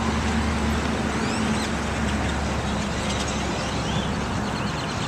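Many birds chirping in short rising calls over a steady traffic rumble.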